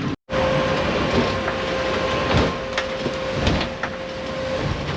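Small fishing boat's engine running steadily, with a constant whine over the noise. A few light knocks come through it.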